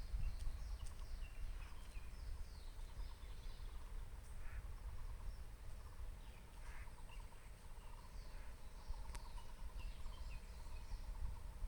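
Wild birds of an unidentified species calling, with short high chirps scattered throughout and a rapid trill in the last few seconds, over a steady low rumble.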